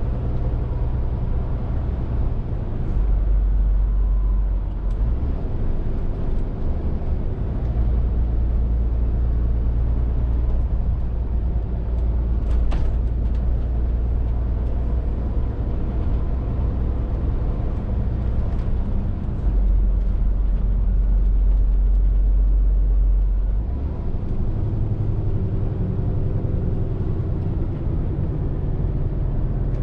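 Scania R450 lorry's 13-litre six-cylinder diesel engine running steadily on the move, a deep drone with road noise over it. The drone grows louder for a few seconds about two-thirds of the way through, and there is one brief click near the middle.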